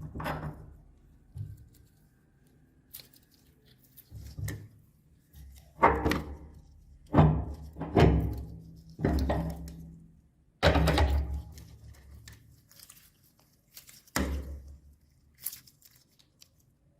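A meat grinder crushing hard lollipop candy: a series of about eight loud cracking crunches, each starting suddenly and dying away over about a second, with quiet gaps between them.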